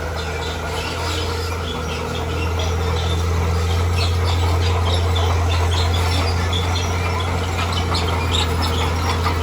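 Heavy earthmoving machine's engine running steadily, with a low hum that grows somewhat louder about two and a half seconds in, and many short high-pitched squeaks and chirps over it.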